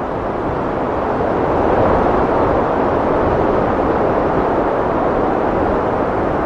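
Heavy wind blowing, a dense, steady rush that swells a little in the first couple of seconds and then holds.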